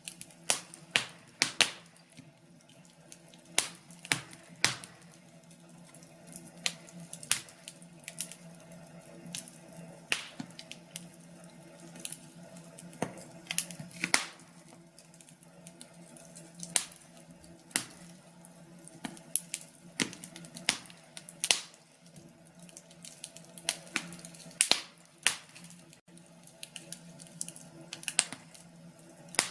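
Wood fire crackling, with sharp pops coming at irregular intervals, some much louder than others, over a faint steady hum.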